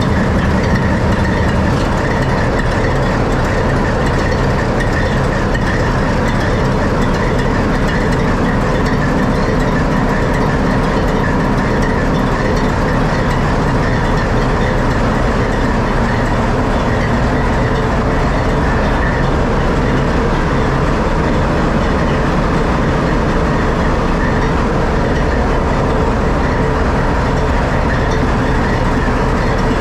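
ALCO 244 diesel engine of a 43 class (ALCO UM118T) locomotive idling, heard steady and loud from inside the engine room, with the whine and clatter of the running machinery around it.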